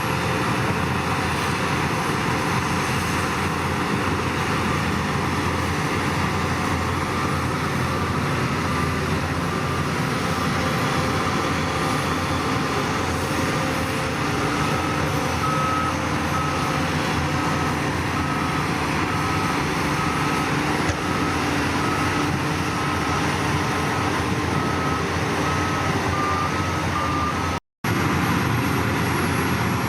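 Heavy diesel earthmoving machinery running steadily under load. From about halfway, a reversing alarm beeps evenly, about one and a half beeps a second, until the sound cuts out briefly near the end.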